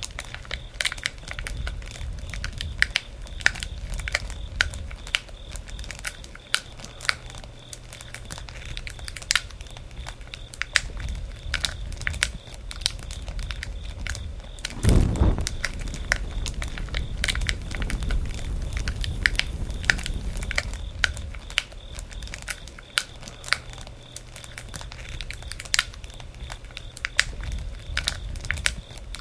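Bonfire crackling and popping, with sharp snaps scattered throughout over a low rumble of flames. About halfway through comes one louder, thudding rush, after which the flames rumble more strongly for a few seconds.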